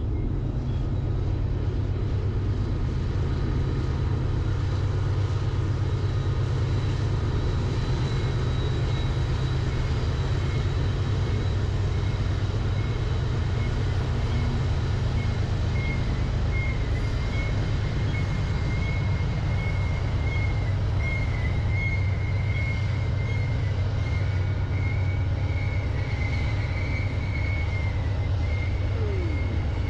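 Freight train running by: a steady low rumble of diesel locomotives and rolling cars. A high wavering squeal joins about halfway through and fades near the end.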